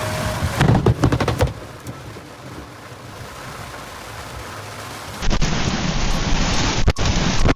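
A burst of clattering knocks, then a quieter stretch. About five seconds in, a loud, steady rush of storm rain and wind begins, with a few sharp knocks in it.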